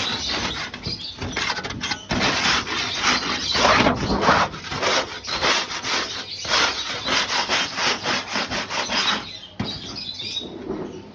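Hand scraper scraping dirt off a bird-aviary tray in quick repeated strokes, about two a second, easing off near the end.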